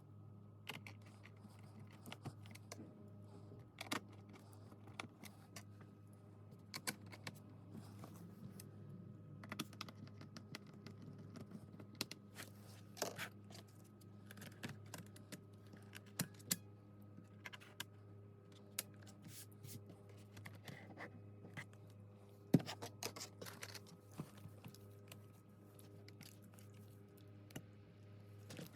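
Typing on a laptop keyboard: irregular, fairly quiet key clicks, several a second with short pauses, over a steady low hum.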